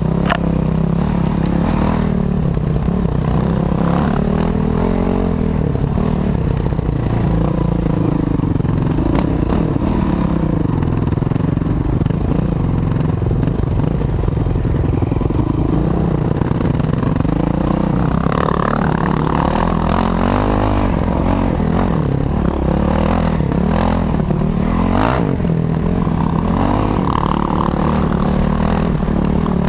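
Enduro dirt-bike engine running under the rider, its pitch rising and falling continually as the throttle is worked along a rough dirt trail. Scattered clatter and knocks from the bike over stones and bumps.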